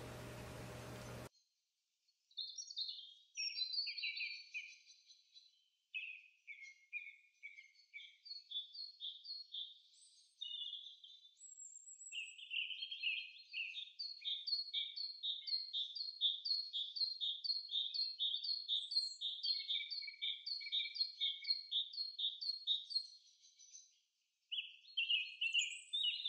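Bird chirping in quick repeated trills, with short pauses between phrases. A faint steady hiss and hum comes before it and cuts off about a second in.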